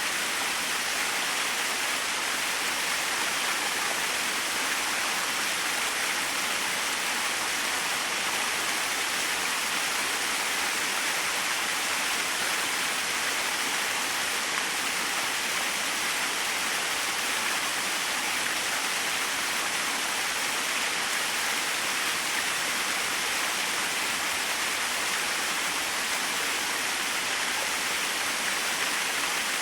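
Small waterfall splashing steadily: an even, unbroken rush of falling water, mostly high hiss with little low rumble.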